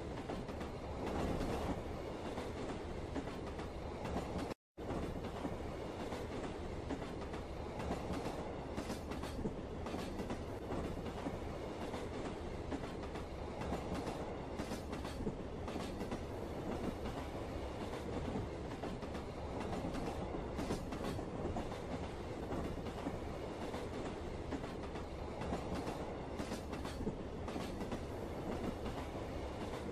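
Train running on the rails: a steady, dense noise that cuts out for a moment about four and a half seconds in.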